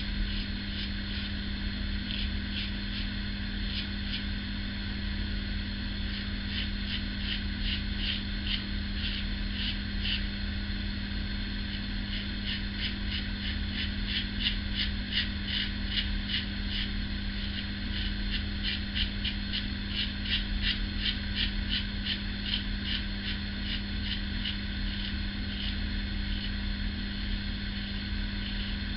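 Ever Ready 1924 single-edge safety razor with a GEM coated blade scraping through lathered stubble in quick runs of short strokes, over a steady low hum.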